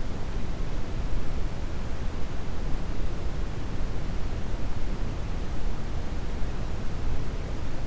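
Steady brown noise: an even, deep rushing hiss, heaviest in the low end, with no change.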